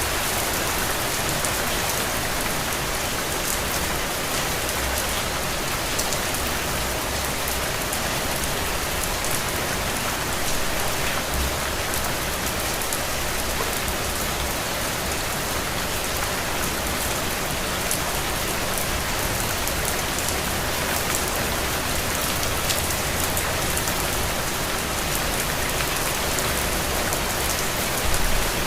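Steady rain falling, with many individual drops ticking on surfaces over a constant hiss and a faint low rumble.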